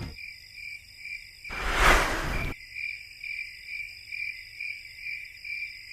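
Insects chirping in a steady, even pulse, about two to three chirps a second. A loud rushing noise cuts in about a second and a half in and lasts about a second.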